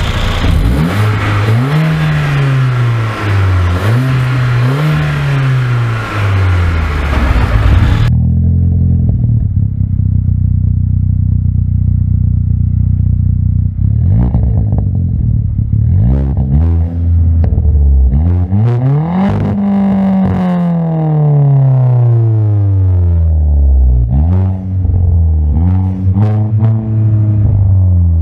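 Mercedes-AMG 2.0-litre turbocharged four-cylinder engine revved in repeated short blips, its pitch rising and falling. After an abrupt cut, a Volkswagen Polo with an aftermarket exhaust idles steadily for several seconds, then is revved: a few quick blips, one long rev about two-thirds of the way through that falls away slowly, then several short blips.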